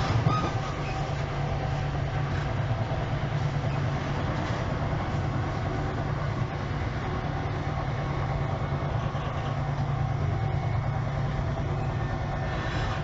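Moving passenger train heard from inside the carriage: a steady low hum with continuous running noise from the wheels on the rails.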